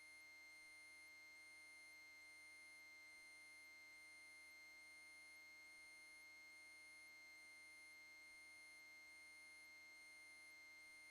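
Near silence: only a faint, steady electronic whine and hiss, with a faint high ticking pattern about once a second.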